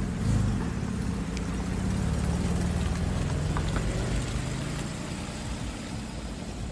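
A car engine running steadily with a low, even pitch, easing off a little in the second half.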